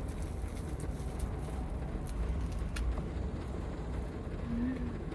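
Heavy rain drumming on the roof of a Toyota HiAce van, heard from inside the cabin as a steady, deep rumble. A single sharp click comes near the middle, and a brief low hum near the end.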